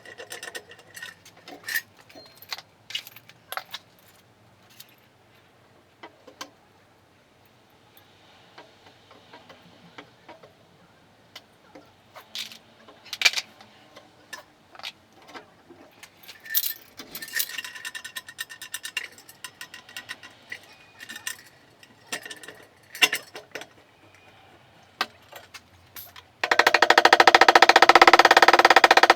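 Scattered metallic clinks and knocks, like tools and metal parts being handled during car body repair. Near the end a loud power tool starts up with a rapid buzzing rattle.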